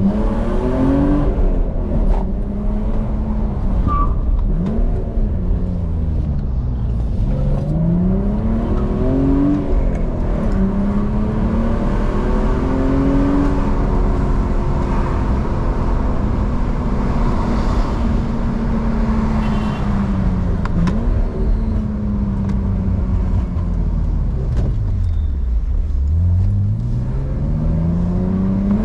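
BMW E46 engine pulling under way, its revs climbing and dropping several times as it runs up and shifts. Revs hold steady for a long stretch in the middle, sink low about 25 seconds in, then climb steadily again.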